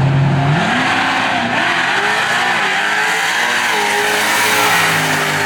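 Drag car engine revving hard over a steady hiss of tire squeal, as in a pre-race burnout. The engine pitch climbs about half a second in, wavers, then holds steady near the end.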